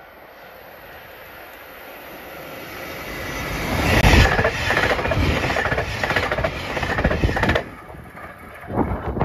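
A train passing through at speed. Its rumble builds over about four seconds, then comes a loud, rapid clatter of wheels over the rails for about four seconds. The clatter cuts off suddenly as the end of the train goes by, with a short burst after it.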